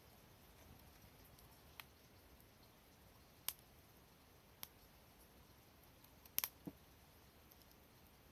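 Near silence broken by a handful of faint, sharp clicks, spaced a second or more apart, with a quick cluster of two or three about six and a half seconds in.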